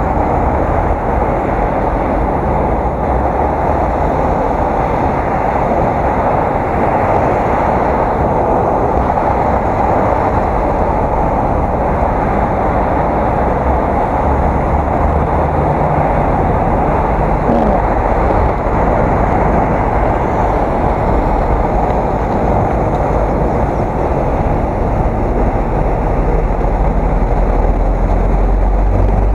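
Steady wind and road noise on an action camera's microphone while riding a bicycle, a loud even rush with a low rumble underneath.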